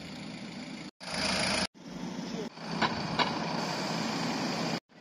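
Parked cars' engines idling, heard in several short clips that break off abruptly, with two sharp clicks near the middle.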